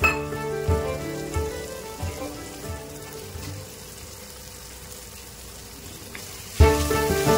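Crumbled paneer and masala frying in oil in a pan, a soft steady sizzle, under instrumental background music. The music fades away after the first couple of seconds and comes back loudly near the end.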